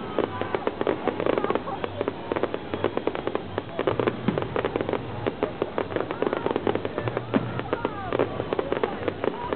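Fireworks display: a dense, unbroken run of pops, bangs and crackle from ground fountains and aerial shells going off many times a second, with crowd voices underneath.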